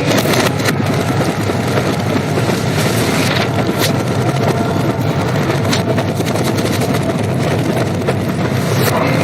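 War-film battle soundtrack played backwards: a dense, steady rumble of engine and helicopter-like noise, with a few sharp cracks or impacts scattered through it.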